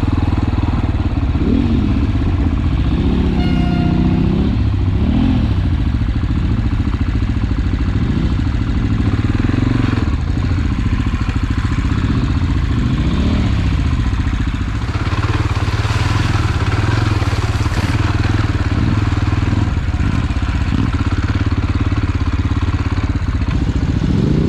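Enduro motorcycle engine heard from the rider's seat, its pitch repeatedly rising and falling as the throttle is opened and closed over rough trail.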